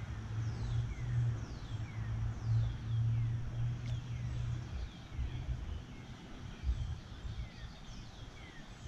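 A bird repeating short downward-sliding chirps, about one or two a second, over a low, uneven rumble of wind on the microphone.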